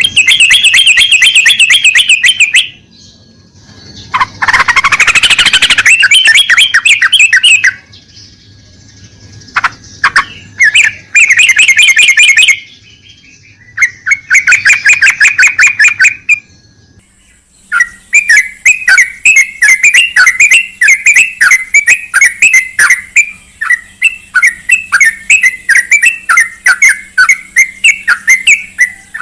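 Yellow-vented bulbul (trucukan) calling: loud bursts of rapid chattering notes, four separate bursts of two to four seconds each, then an unbroken run of chatter through the last third.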